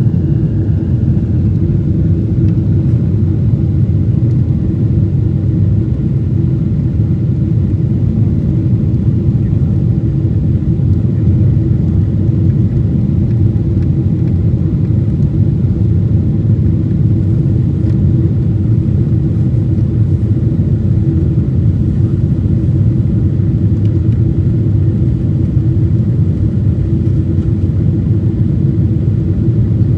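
Cabin noise inside a Boeing 777 airliner: a steady, loud drone of its twin jet engines and the rushing air, with a constant low hum running through it.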